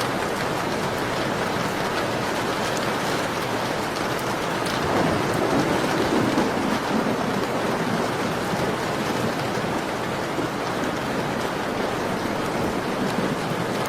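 Steady rain falling, an even hiss with fine pattering drops. About five seconds in, a low rumble swells briefly and then fades back into the rain.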